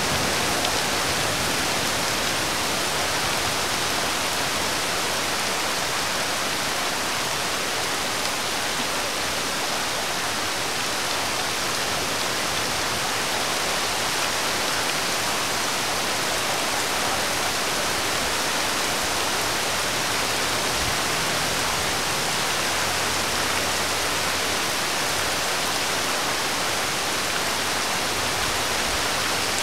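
Steady rain falling on a wet road, an even hiss with no breaks.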